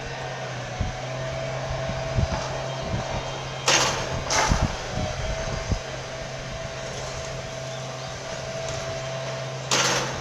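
Wind buffeting the microphone in strong gusts, with low thumps and three short loud rushes of hiss, over a steady low hum.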